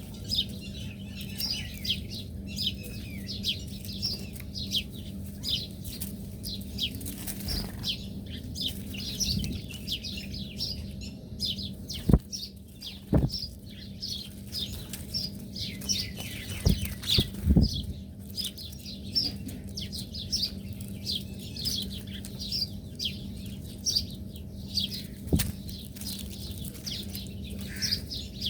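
A flock of small birds chirping constantly, in many short high chirps several times a second. A few sharp knocks sound around the middle of the stretch and once more near the end, over a steady low hum.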